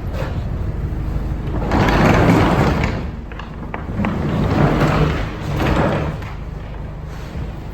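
Roll-up rear door of a box truck's cargo box rolling, two rattling runs of about a second and a half each, over a steady low engine hum. The door's spring is weak, so it runs stiff.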